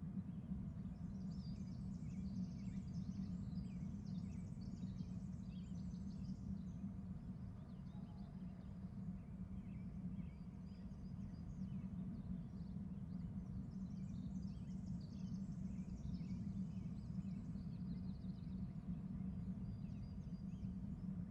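Eagle calling in two spells of quick, high, chittering notes, one early and one past the middle, over a steady low hum.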